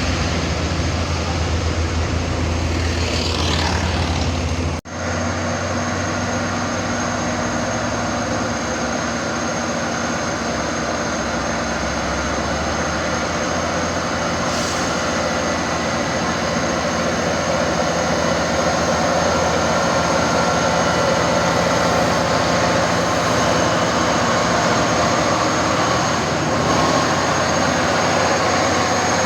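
Heavy truck engines running steadily, with a sudden brief dropout about five seconds in.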